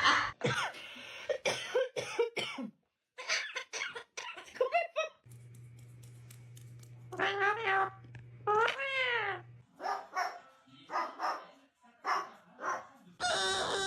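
Pet parrots calling and making cough-like sounds in a string of short, abruptly cut segments, with a pair of calls that rise and fall in pitch near the middle.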